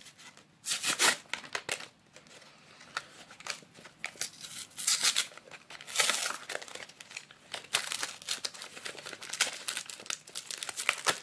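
Yu-Gi-Oh booster pack packaging being wrestled open by hand: irregular crinkling and tearing of the wrapping and box, in scratchy bursts, loudest about a second in and again about six seconds in.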